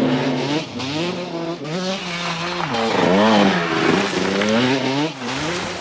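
Dirt bike engines revving, their pitch repeatedly climbing and dropping as they accelerate and shift.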